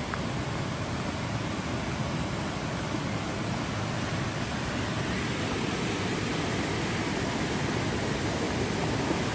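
Steady rushing of fast-flowing floodwater, an even roar with no distinct events.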